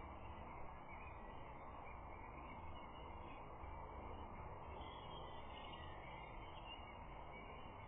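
Steady outdoor background noise, an even hiss with no distinct calls or knocks, picked up by a stork nest camera's microphone.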